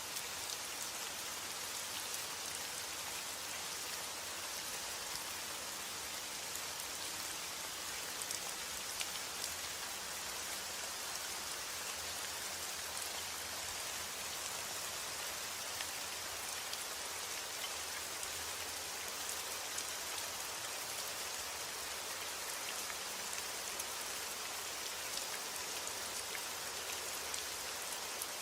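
Heavy rain falling steadily as an even hiss, with individual drops ticking sharply here and there.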